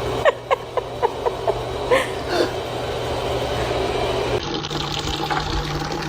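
Water running steadily, like a tap filling a bucket. In the first two seconds it is overlaid by a quick series of about eight short squeaky chirps.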